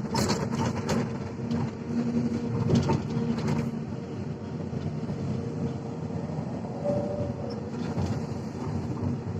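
Heavy diesel earthmoving machinery running steadily with a low engine hum, with a few clanks in the first few seconds.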